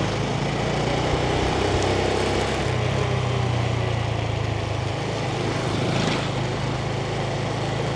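Yamaha 125cc motorbike's single-cylinder engine running steadily while riding, with road and traffic noise; the engine note shifts slightly a few times.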